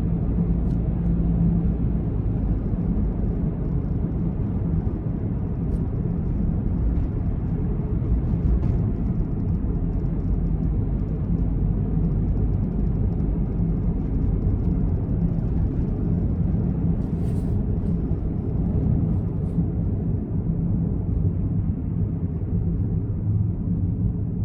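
Steady low rumble of a Honda N-BOX's 660 cc three-cylinder engine running, heard from inside the cabin, with little change in pitch or level.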